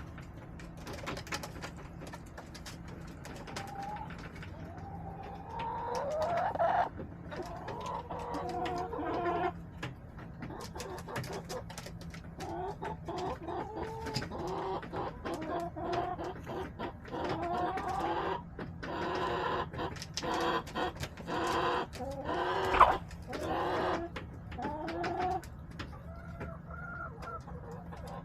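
Domestic hens clucking and calling in short pitched phrases, some rising, coming thickest in the second half, with small taps throughout and one sharp knock about two-thirds of the way through.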